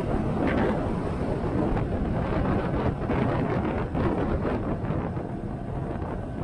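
Wind buffeting the microphone on a moving motorcycle, with the engine running underneath as a steady low noise.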